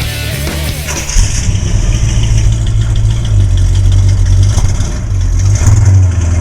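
The 350 cubic-inch small-block V8 of a 1956 Chevrolet Bel Air comes in suddenly about a second in and runs steadily and loudly.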